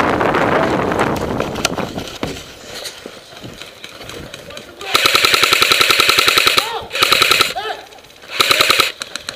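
Airsoft electric gun firing on full auto in three bursts, rapid even cracks over the whir of its gearbox: a long burst about halfway through, then two shorter ones. The first couple of seconds hold a stretch of rough noise.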